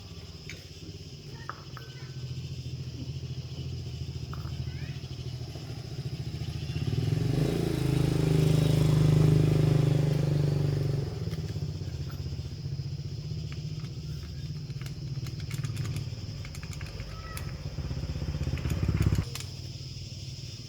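Old scooter's small engine running, revved up for a few seconds in the middle and then settling back, before it cuts off suddenly near the end.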